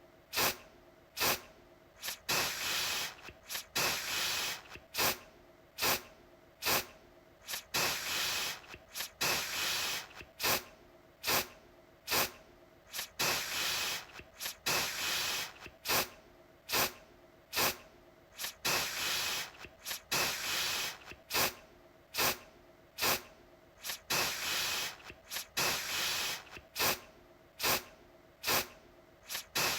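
Aerosol deodorant can sprayed in short hissing bursts, a little more than one a second and somewhat irregular, sometimes two close together, with a fainter hiss between bursts.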